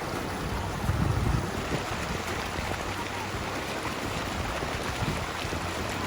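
Steady water and wind noise heard from a kayak on a lake, with a louder low rumble for about half a second, about a second in.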